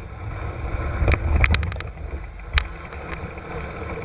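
Mountain bike ridden downhill on a rough trail, heard from an on-board camera: wind buffeting the microphone with a low rumble, and several sharp rattles and knocks from the bike over the ground, the loudest about a second in and again at two and a half seconds.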